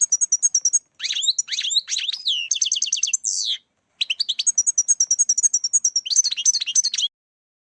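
European goldfinch singing: rapid high twittering, liquid trills and slurred notes in quick phrases with brief breaks, cutting off abruptly about seven seconds in.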